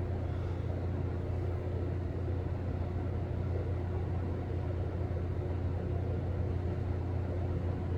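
Steady low engine rumble, even throughout, with a faint steady hum above it.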